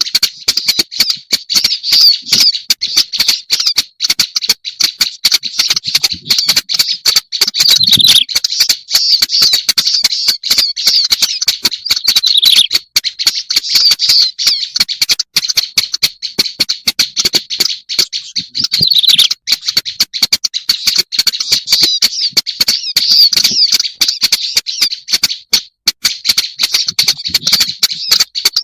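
Black-browed reed warbler song, used as a lure call: a continuous fast run of chattering notes with a couple of brief breaks.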